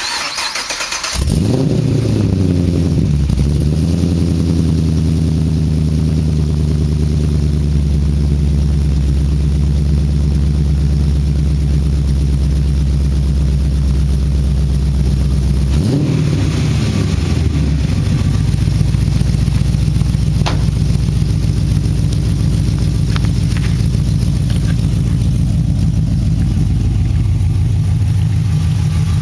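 Mazda RX-7's swapped GM LS3 V8, breathing through long-tube headers, an X-pipe and dual mufflers, cranks and fires about a second in, flares up, then settles to a steady idle. About halfway through there is one short rev that rises and falls, then the engine goes back to idling.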